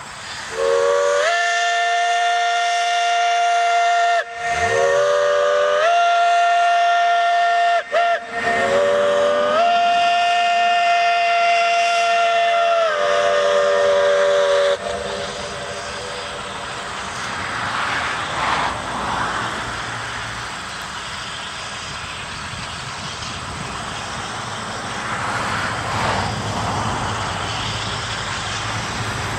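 Narrow-gauge steam locomotive's chime whistle sounding three long blasts, each sliding up in pitch as it opens, the last the longest. After the whistle cuts off, the train runs on with a steady rumble.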